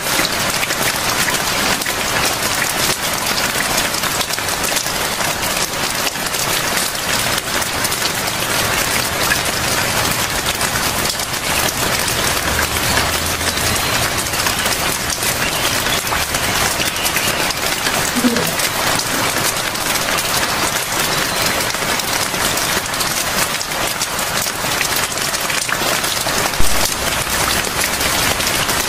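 Steady rain falling, a dense even hiss of drops hitting a surface, with one brief low thump near the end.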